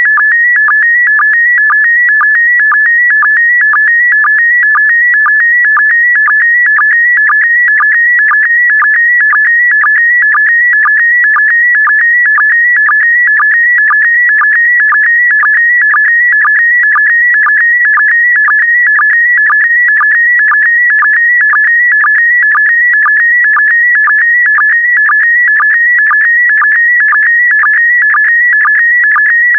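PD120 slow-scan television (SSTV) image signal: a steady, high warbling tone whose pitch shifts constantly, in a pattern that repeats about twice a second, each repeat set off by a short lower sync pulse. The changing pitch carries the picture's brightness and colour, line after line.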